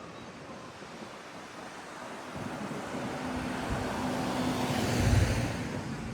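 A motor vehicle driving past close by: its engine and tyre noise swells from about two seconds in, peaks with a deep rumble near the end, then starts to fade.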